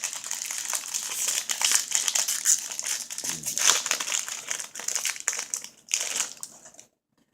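Baseball card pack wrapper being torn open and crinkled by hand, a dense crackling that stops abruptly just before the end.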